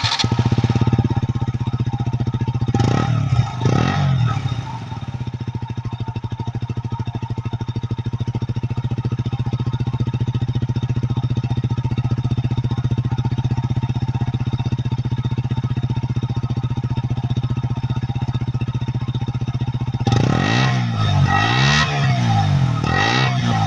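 KTM RC125's single-cylinder four-stroke engine through its stock exhaust. It gives two quick throttle blips a few seconds in, then idles steadily, then revs up and down several times near the end.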